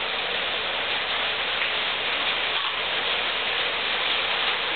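Rain falling, boosted in the recording into a steady, staticky hiss with no breaks.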